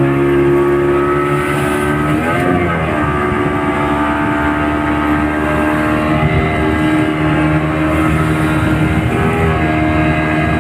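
Motorboat engine running steadily, its pitch wavering briefly twice, about two and a half seconds in and again near the end.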